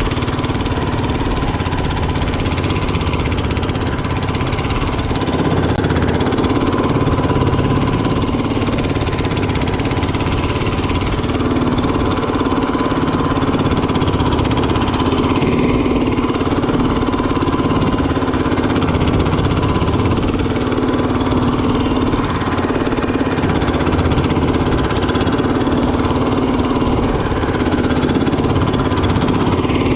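A fishing boat's engine running steadily, its rapid low firing beat unchanged throughout.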